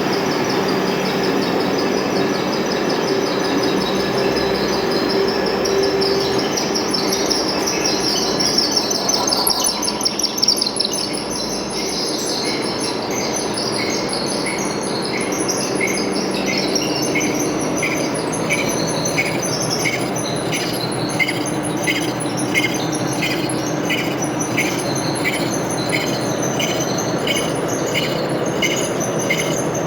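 Metal lathe running, with a steady hum, a wavering high squeal and, from about halfway, a high chirp repeating roughly every 0.7 s.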